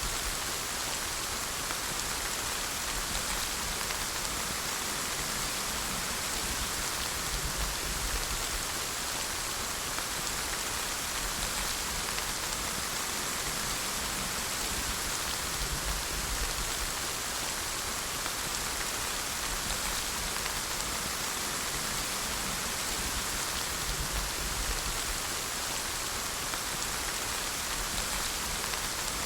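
Steady rain falling: an even, continuous hiss of rainfall with no breaks.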